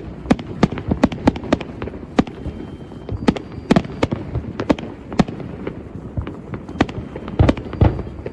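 Fireworks exploding in a continuous barrage: sharp bangs at irregular intervals, a couple a second, over a steady low rumble.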